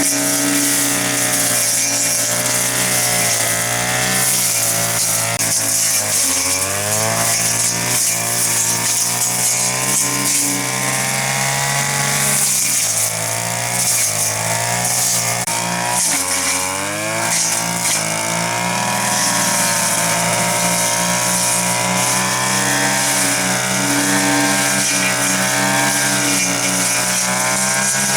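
Chainsaw running and cutting wood, its engine pitch wavering and dropping sharply twice as the chain bites, then picking back up.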